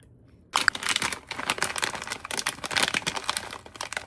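Plastic packaging crinkling and rustling as it is handled, starting suddenly about half a second in and going on in a dense, irregular crackle.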